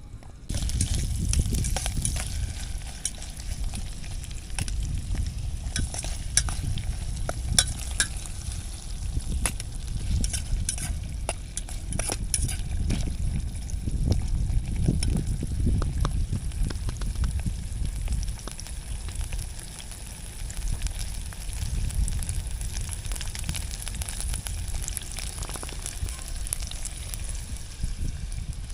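Food frying in hot oil: a steady sizzle with scattered crackles, over wind rumbling on the microphone.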